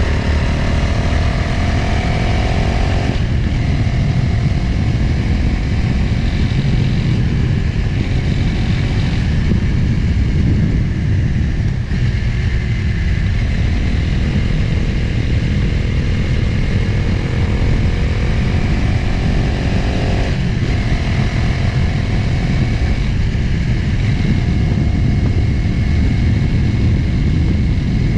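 Motorcycle engine riding at speed with wind rushing over the microphone. The engine note climbs as it accelerates, drops at a gear change about three seconds in, and climbs again before another shift about twenty seconds in.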